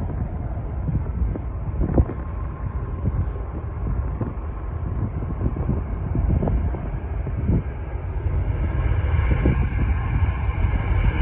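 Jet airliner engines rumbling, with a higher whine building over the last few seconds; wind buffets the microphone.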